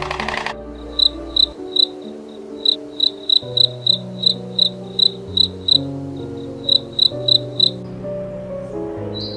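Cricket chirping in short, high chirps about three or four a second, with two brief pauses, stopping near the end. Soft background music with held low notes runs underneath.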